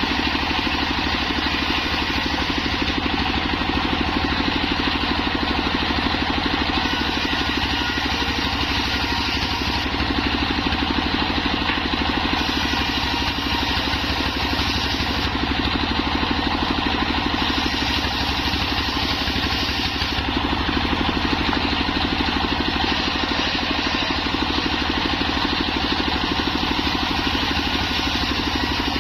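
Homemade circular saw rig running steadily, its drive making a continuous engine-like hum.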